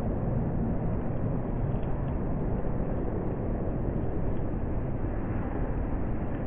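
Steady low noise inside a car driving on a flooded road in heavy rain, with the vehicle's running noise and rain and water around it blending into one even sound.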